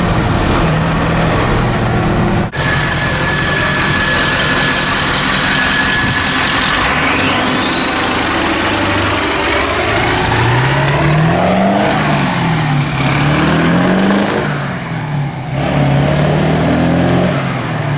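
Ford F600's swapped-in 7.3 L Powerstroke turbo diesel V8 pulling the truck down the road, its pitch climbing and dropping several times in the second half as it accelerates through the gears of the five-speed manual. A high whine rises about halfway through.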